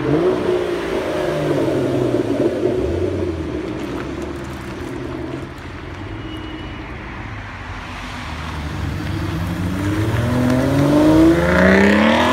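Aston Martin Vanquish Volante's V12 engine revving as the car drives by. It drops to a quieter, lower running note in the middle, then accelerates hard with a rising pitch and is loudest near the end.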